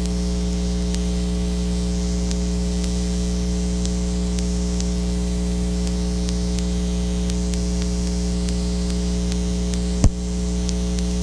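Steady electrical mains hum with a faint hiss and scattered faint ticks, and a single sharp pop about ten seconds in.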